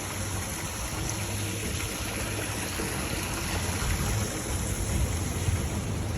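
Thunderstorm wind and rain, a steady rushing noise with a fluctuating low rumble of wind on the microphone.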